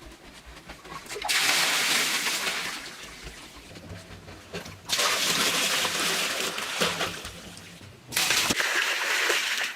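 Water rushing and splashing in three stretches of a few seconds each, each starting and stopping abruptly.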